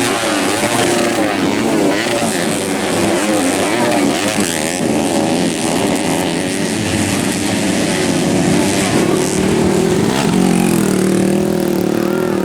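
Several dirt-bike engines racing on a grasstrack, revving up and down as they go through the gears and corners, their pitches overlapping.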